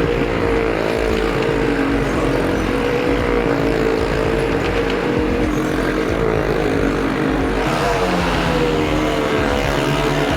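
Engines of stunt vehicles riding round the wall of a well of death, held at steady high revs. The pitch rises and falls a little near the end.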